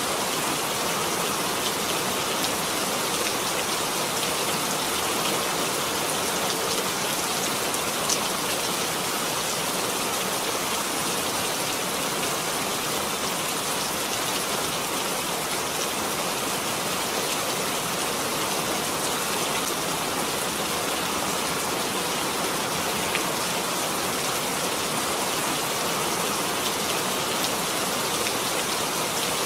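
Steady rain falling, a continuous even hiss with occasional faint drop ticks.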